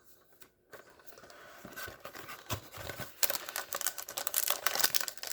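Packaging of a trading card box being opened and handled: crinkling and rustling with many small clicks, starting about a second and a half in and busiest near the end.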